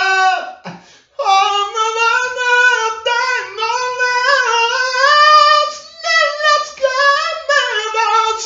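A single high-pitched voice singing unaccompanied, holding and sliding between notes, with a short break about a second in.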